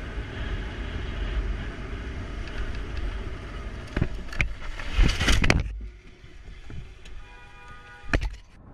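Steady road and engine rumble of a moving car, with sharp knocks about four seconds in and a loud cluster of bangs about five seconds in, typical of a collision. It then goes quieter, with a brief steady tone and one more knock near the end.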